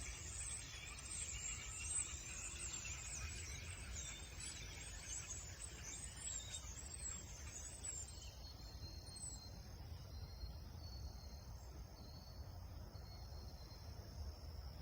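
A large flock of small birds chattering together in a tree, a dense mass of high chirps that thins out about halfway through. After that only a faint, thin, steady high trill remains.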